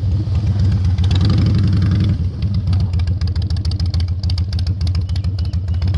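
Harley-Davidson V-twin motorcycle engine running at low speed with a pulsing low rumble, rising briefly about a second in. Rapid crackling clicks run over it from about two seconds in.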